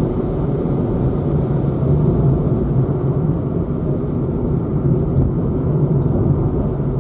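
Steady vehicle engine and road noise picked up by an onboard camera while driving, a continuous low hum with no change in pace.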